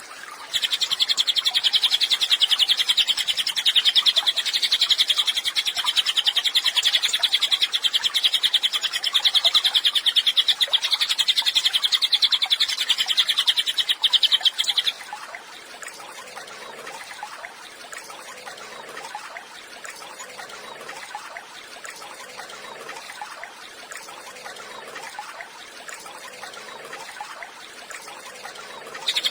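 Cililin songbird singing a long, very rapid, high trill that stops abruptly about fifteen seconds in. It is followed by a quieter stretch with faint low notes repeating about every two seconds.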